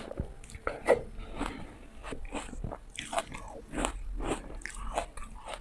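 Close-miked bites into hard frozen ice: a series of sharp crunches and cracks with chewing between them, the loudest about a second in.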